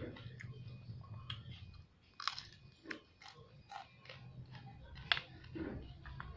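Close-up mouth sounds of a person eating: chewing with a series of sharp crunches and wet clicks, the loudest bites about two and five seconds in.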